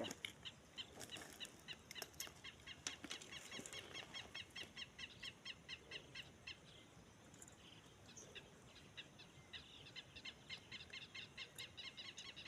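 A small bird chirping in a fast repeated series, about four or five short chirps a second, with a brief pause around the middle.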